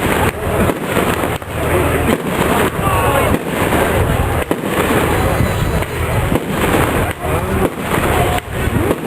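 Fireworks going off at a display: a dense, irregular series of bangs and crackles, with several sharp bangs each second at times.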